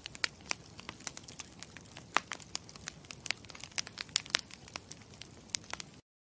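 Campfire crackling: irregular sharp pops and snaps over a soft steady hiss, cutting off suddenly near the end.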